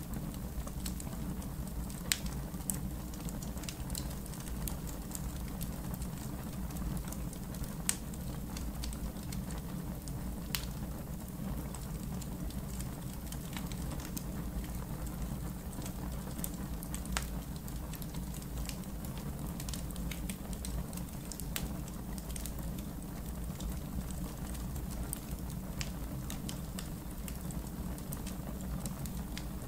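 Wood fire in a backyard fire pit crackling, with sharp pops every few seconds over a steady low rumble.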